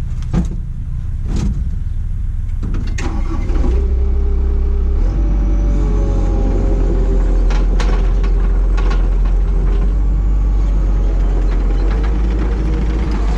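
Skid steer engine running with a heavy low rumble that gets louder about four seconds in, as a steady whine comes in and steps up in pitch; a few sharp clunks along the way.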